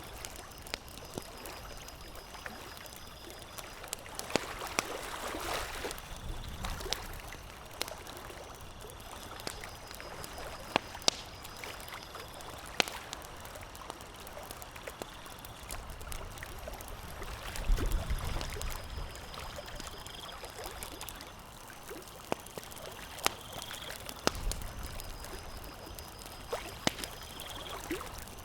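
Campfire crackling: sharp, irregular pops and snaps over a steady hiss, with a few low rumbling swells.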